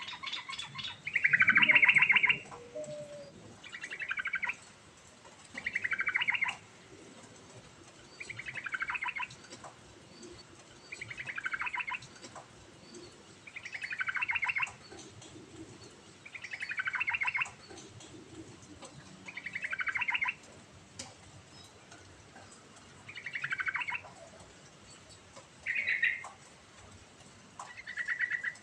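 Yellow-vented bulbul (trucukan) singing: about eleven short phrases, roughly one every two to three seconds, each dropping in pitch. The first phrase, about two seconds in, is the loudest.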